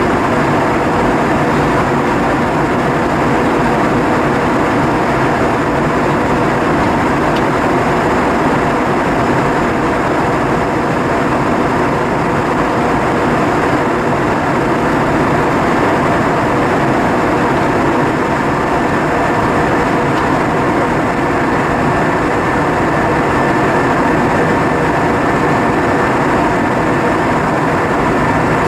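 Airbus A320 passenger cabin in flight: a steady roar of airflow and engine drone with a few faint constant hums running through it.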